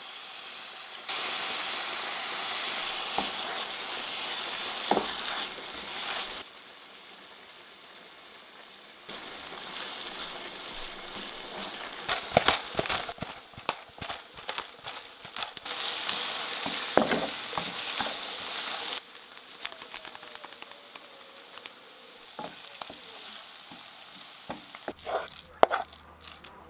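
Grated carrot, onion and tomato paste frying and sizzling in a frying pan, stirred with a wooden spoon that clicks and scrapes against the pan. The sizzle comes in stretches that cut in and out abruptly, and near the end the spoon knocks and scrapes several times.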